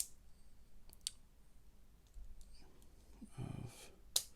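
Lego Technic plastic parts clicking as pieces are pressed together, with sharp clicks at the start, about a second in and near the end, and a brief softer noise a little past three seconds.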